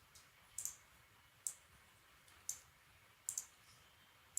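Computer mouse button clicking, a short sharp click roughly once a second, with two close together about three seconds in.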